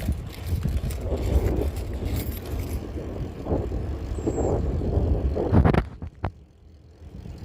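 Wind rumbling on the microphone and tyre noise while riding a bicycle, dropping away suddenly near the end, followed by one sharp click.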